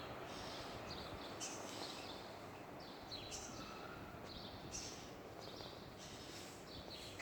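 Small birds chirping in short high bursts that come every second or two, over a steady hiss of outdoor background noise.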